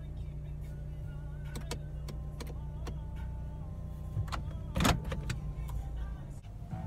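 Car engine idling, heard from inside the cabin as a steady low hum, with scattered light clicks and one sharp thump about five seconds in. Faint background music plays.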